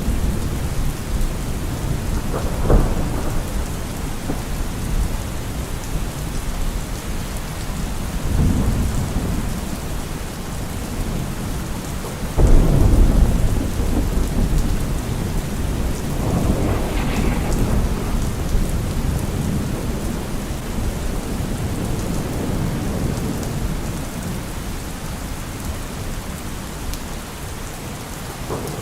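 Heavy rain falling steadily on a car roof, with several rolls of thunder: a short crack about three seconds in, and rumbles through the rest, the loudest starting near the middle.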